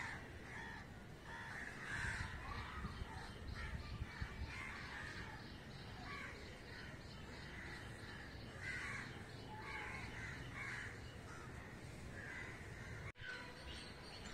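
Birds calling again and again in short, irregular calls, over a low steady background hum. The sound cuts out briefly about a second before the end.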